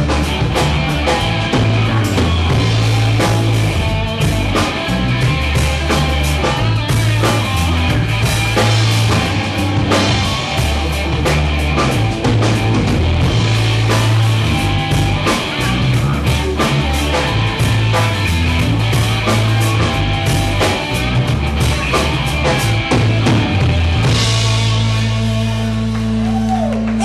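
Live rock band playing an instrumental passage: drum kit, electric guitar and bass, ending on a held chord near the end.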